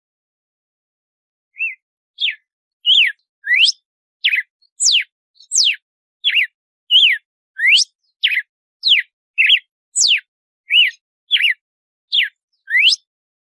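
Red-cowled cardinal (galo-de-campina) singing its 'açoite' song, starting about a second and a half in: a run of about twenty clear whistled notes at about two a second, each a quick slur that either rises or falls in pitch.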